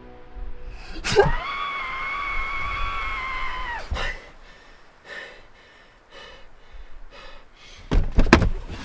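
A sudden hit, then a high-pitched held cry or wail lasting about three seconds that drops off at the end. Near the end come a few heavy thunks.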